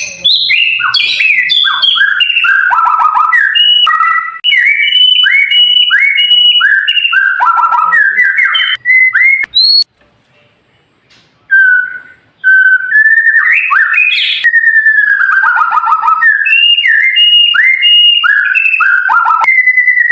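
White-rumped shama singing: a fast run of sharp, downward-sliding whistled notes, breaking off about halfway for a second and a half before the song resumes.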